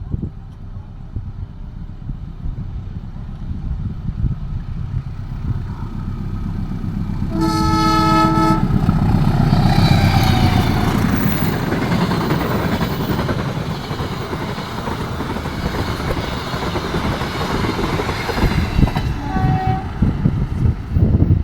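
Passenger train hauled by two diesel locomotives approaching and passing: a low engine rumble builds up, a horn sounds one blast of about a second, then the locomotives and coaches go by loudly. A brief higher tone sounds near the end.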